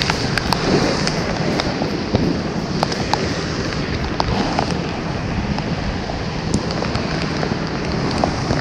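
Steady rushing noise of falling water and rain, with scattered sharp ticks of drops striking the camera.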